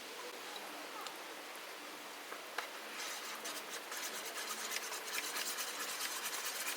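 Quick, repeated scratchy rubbing that starts about three seconds in and keeps going, after a couple of faint clicks.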